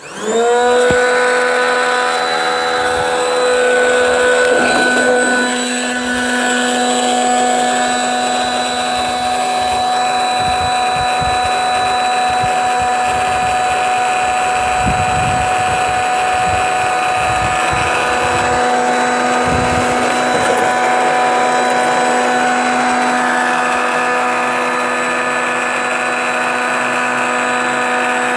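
High-speed electric air pump switched on, spinning up in under a second to a steady, loud motor whine as it inflates a truck bed air mattress.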